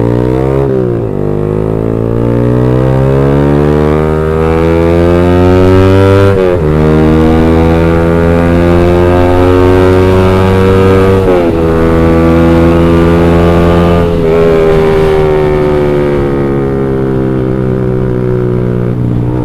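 Motorcycle with an X1 Speed Pro One aftermarket exhaust (32 mm header, short 15 cm fully packed silencer) accelerating through the gears. The engine note climbs in pitch and drops back at each of four upshifts, then holds nearly steady while cruising. The note is deep and bassy but still fairly mellow, which the rider puts down to the fully packed silencer.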